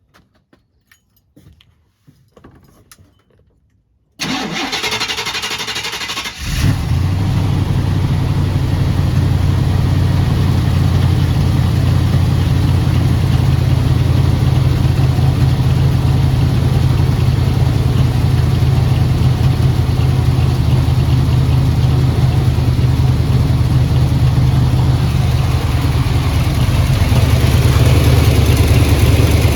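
Small-block 350 TBI V8 with headers and a Dynomax Super Turbo muffler, started after sitting about a month: about four seconds in the starter cranks for about two seconds, then the engine catches and settles into a steady idle.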